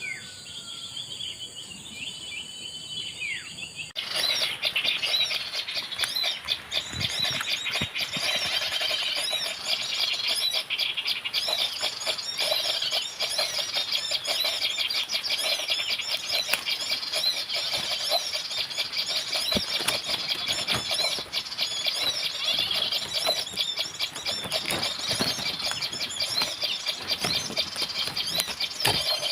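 A few rising and falling whistles, then, starting abruptly about four seconds in, a dense, continuous chatter of high, squeaky bird calls, typical of a bird-lure call played to draw birds in.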